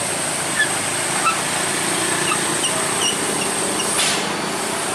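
Steady noise like a running engine or wind, with a dozen or so short bird chirps scattered through it and a brief hiss about four seconds in.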